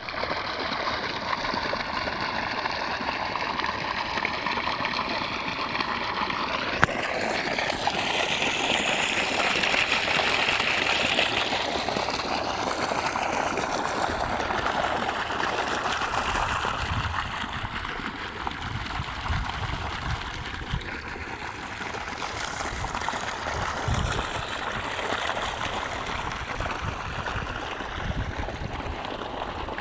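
Flowing water running steadily, with a single sharp click about seven seconds in and some low rumbling in the second half.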